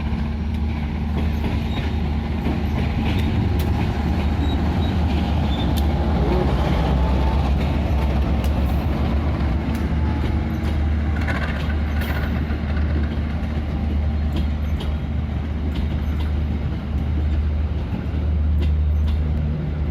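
Diesel-hauled train running slowly into a station: the locomotive engine's steady low drone, with scattered sharp clicks of wheels passing over rail joints.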